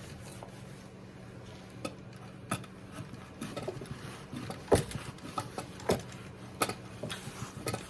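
Scattered light clicks and knocks of a perch being fitted into a birdhouse by hand, the sharpest knock a little before the middle, over a faint steady hum.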